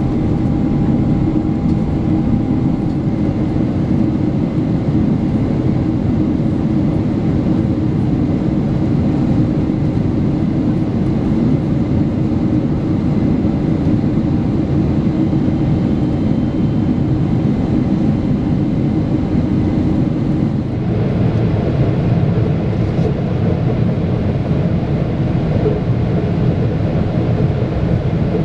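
Steady cabin noise aboard a Boeing 777-300ER airliner: engine and airflow rumble with a hiss. The sound shifts about two-thirds of the way in, taking on more mid-pitched drone.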